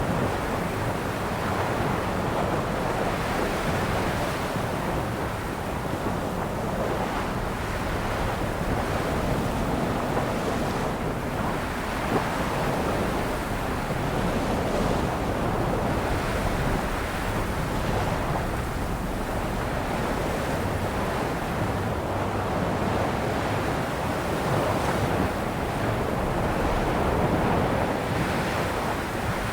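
Ocean waves breaking and washing on a shore in a steady, continuous surf wash, with some wind on the microphone.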